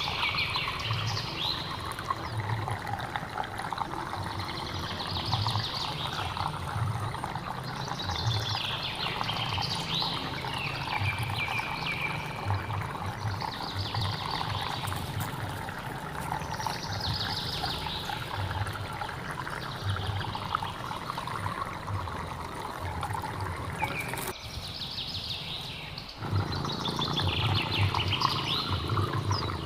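Hillside stream water flowing steadily, with a high animal call repeating every two to three seconds over it. Near the end the water sound cuts out for about two seconds, then comes back.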